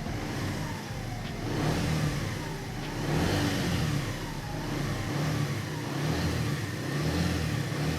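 Keeway SR125's 125cc single-cylinder engine running, with the throttle blipped so the revs rise and fall a few times. It has a smooth, refined sound.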